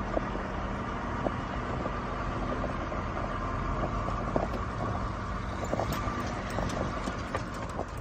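A motor vehicle's engine running steadily, with short scattered clicks and knocks over it.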